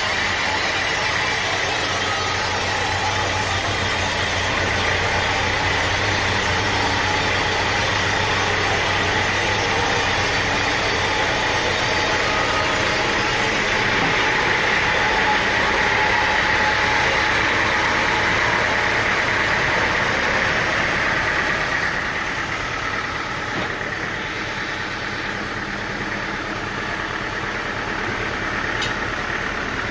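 An engine runs steadily, with a high hiss over it that stops about 14 seconds in. The overall level falls a little a few seconds later.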